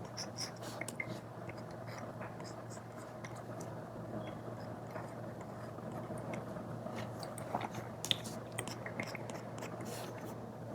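Apple Pencil tip tapping and scratching on an iPad screen fitted with a paper-like film: scattered small clicks and short scrapes at an uneven pace, over a steady low hum.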